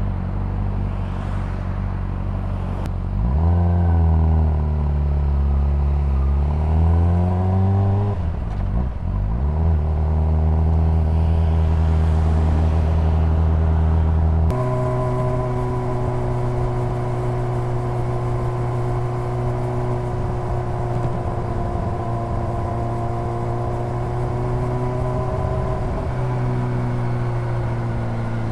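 Honda CBR600RR inline-four engine and exhaust running while riding. The engine note falls and then climbs again a few seconds in, holds steady, then changes abruptly about halfway through to another steady cruising note.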